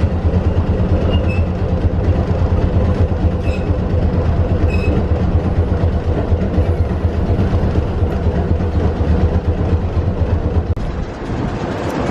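Streetcar running, heard from inside the car: a loud, steady low rumble of motor and wheels on rails, with a few short high squeaks in the first five seconds. The rumble eases about eleven seconds in.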